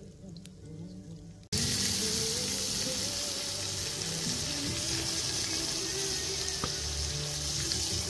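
A steady, loud hiss starts abruptly about one and a half seconds in and continues over background music.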